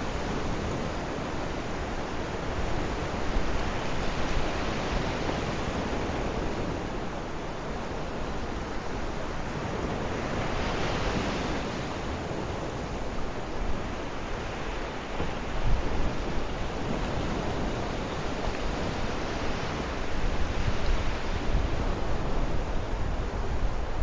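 Sea waves washing onto the shore, a steady surf hiss with one wave swelling and receding about halfway through. Wind rumbles on the microphone in gusts, heavier near the end.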